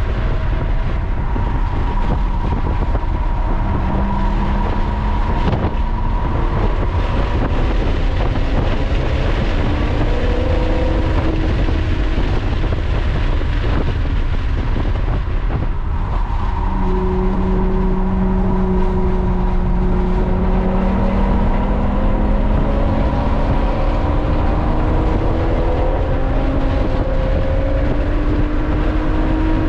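Lotus Evora's V6 engine under hard acceleration, heard inside the cabin over wind and tyre noise at high speed. Its note climbs steadily, eases briefly about halfway through, then rises again in a long pull.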